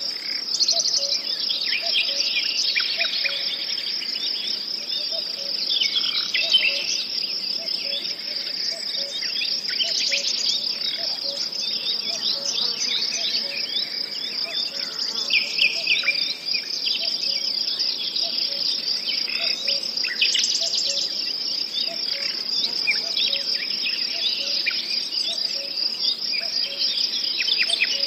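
Nature ambience: crickets trilling steadily, with many short bird chirps over them throughout.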